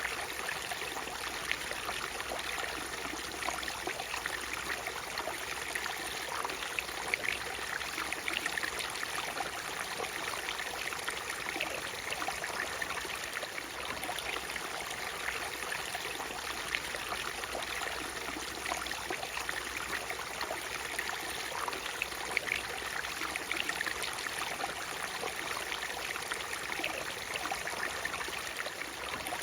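Natural waterfall: water rushing and splashing in a steady, unbroken wash, with many small quick splashes and trickles on top.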